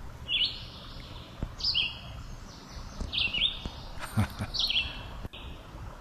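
Red-winged blackbird singing: a repeated song, each a quick rising note that runs into a held, buzzy trill, coming about every second and a half.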